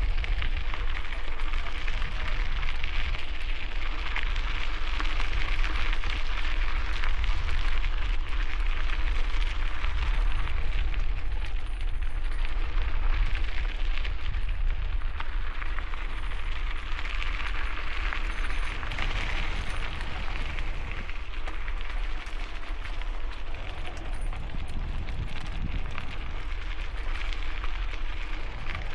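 Bicycle tyres crackling over gravel while riding, with wind on the microphone as a steady low rumble underneath.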